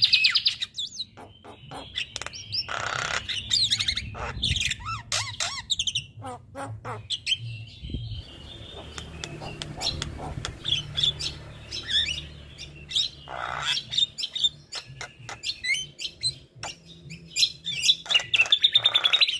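Male Javan myna singing a varied song of harsh squawks, chattering notes and sharp clicks, broken by rapid buzzy trills at the start, about three seconds in, around thirteen seconds and near the end. A low steady hum sits under the middle of the song.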